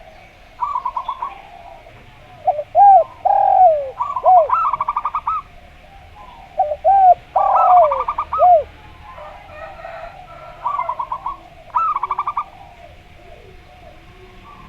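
Zebra dove (perkutut) and spotted dove (derkuku) calling against each other. Quick pulsed cooing phrases come again and again, mixed with two runs of deeper, arched, falling coos.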